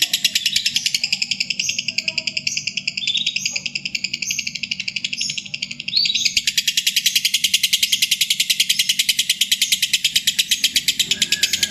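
Lovebird's 'ngekek': a long, very rapid, high-pitched chattering trill that runs without a break. It dips briefly about five seconds in, then resumes louder.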